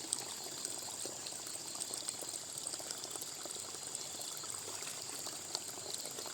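Water running and trickling steadily, with many small splashing ticks.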